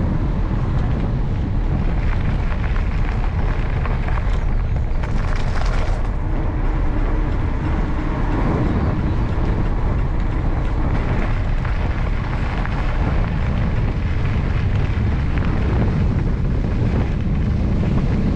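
Wind buffeting the microphone of a camera on a moving bike, a steady low rumble, riding into a headwind. A brief brighter hiss comes about five seconds in.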